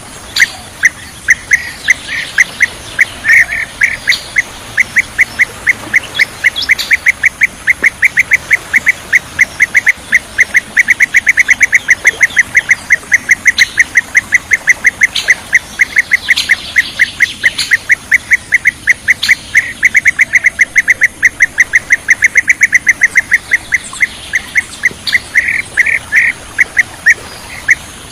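Bee-eater (kirik-kirik) calling: a rapid, unbroken run of short, clipped chirps at about five a second, repeated throughout.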